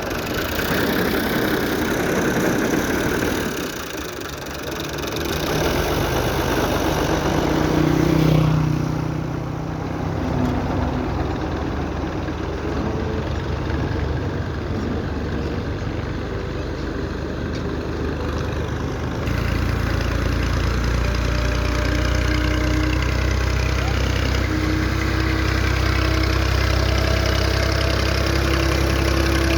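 Tractor engines running while hauling trolleys loaded with sugar cane, across several clips whose sound changes abruptly about 8 and 19 seconds in. From about 19 seconds on, a steady deep engine hum.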